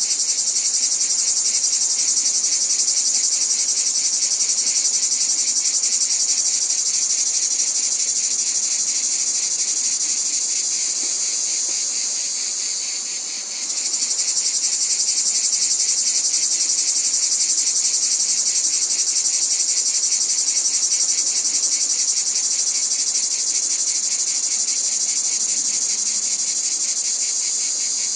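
Insects, crickets or similar, trilling in a continuous high-pitched chorus with a fast, even pulse. It dips briefly about halfway through, then picks up again.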